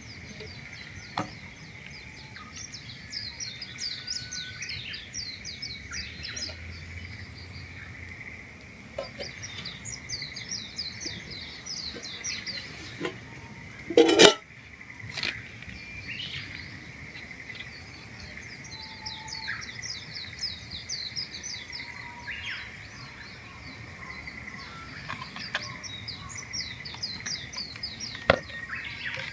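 Songbirds singing in bouts of quick, high repeated notes over a steady high-pitched hum. A single loud knock comes about halfway through.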